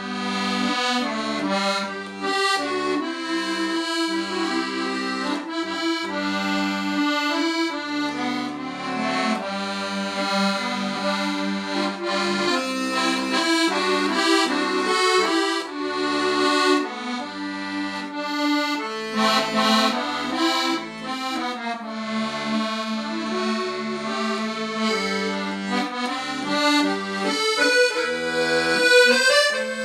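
Solo accordion playing a slow Korean ballad melody over sustained chords and short bass notes.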